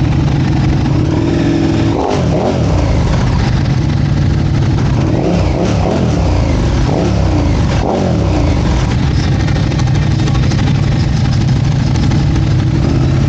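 Motorcycle engines running at idle, with the throttle blipped into short revs about two seconds in and several more times in the middle.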